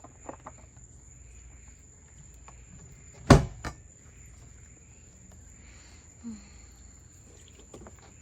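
One sharp, loud knock about three seconds in, followed by a smaller one, with a few light clicks before it: hard plastic of a cooler being handled and shut. Under it, a steady high trill of crickets at night.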